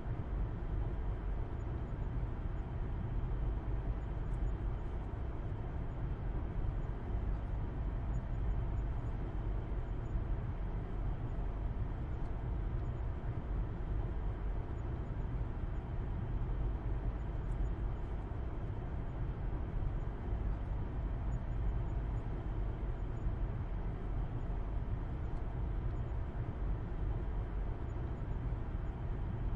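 Steady low rumble of a car being driven at an even speed, engine and road noise heard from inside the car.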